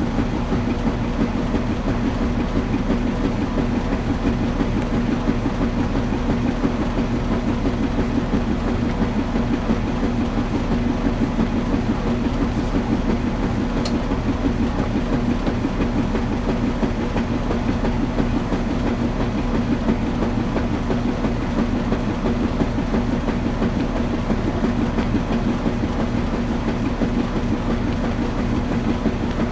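Washing machine running, a steady unbroken churning noise with a constant low hum.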